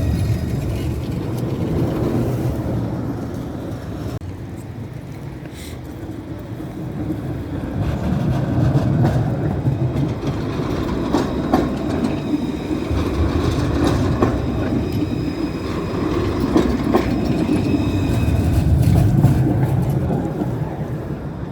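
City tram running on its rails: a steady low rumble that swells and fades, with scattered clicks of the wheels over the track.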